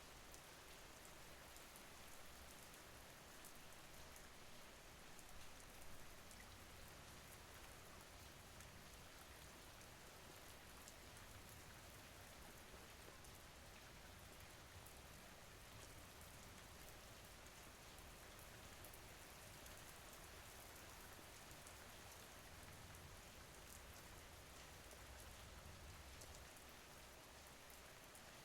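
Faint, steady rain: an even hiss with fine drop ticks.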